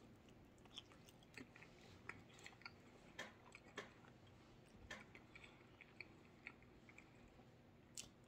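Faint close-up chewing and wet mouth clicks of a person eating hot wings: irregular soft smacks and ticks, a few a second, with a few sharper ones around the middle and near the end.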